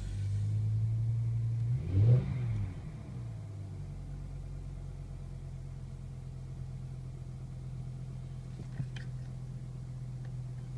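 BMW M5 engine idling after a cold start. About two seconds in it gives a short rev blip that rises and falls, then it settles to a quieter, steady idle. The owner suspects a VANOS (variable valve timing) issue.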